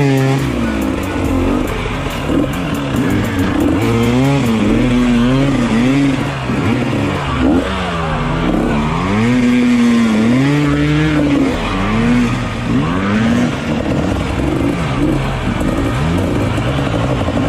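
Dirt bike engine revving up and down over and over, its pitch climbing and dropping every second or two like a motocross bike working through the throttle.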